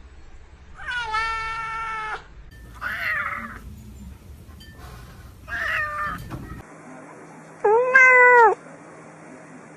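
A domestic cat meowing four times in drawn-out calls. The first, about a second in, lasts over a second, and the loudest comes near the end.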